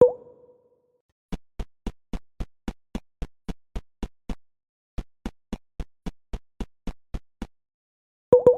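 A short pitched pop at the start, then a steady run of sharp clicks, about four a second. The clicks break off for under a second midway and stop near the end.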